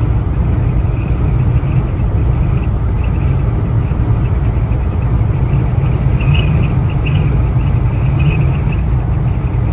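Inside the cab of a Volkswagen Vanagon driving into gusty side winds: a steady low rumble of road and wind noise, with short high squeaks or whistles now and then.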